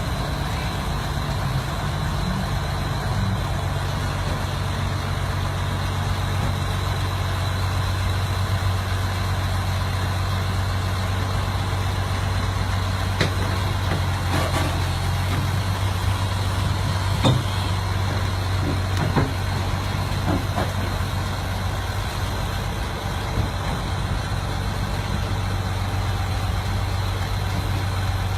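Heavy vehicle engine running steadily, with a few sharp knocks in the middle.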